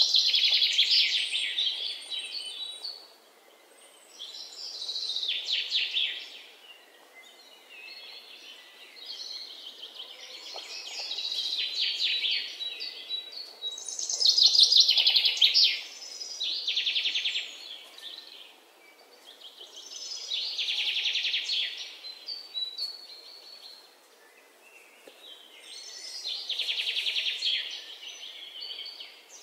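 A songbird singing: repeated phrases of rapid chirps and trills, one every two to four seconds with short pauses between.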